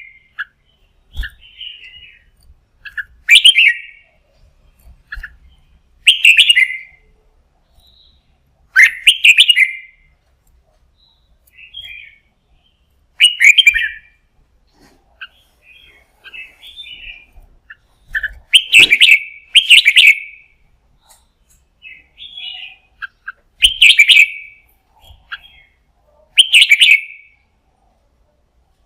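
Red-whiskered bulbul singing: loud, short, rich phrases repeated every few seconds, with softer chattering notes in between.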